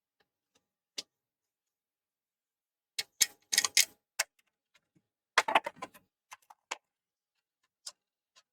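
Scattered clicks and clattering knocks of small hard parts and tools being handled: a single click about a second in, two busy runs of clatter around three and five and a half seconds in, and a couple of lone clicks near the end.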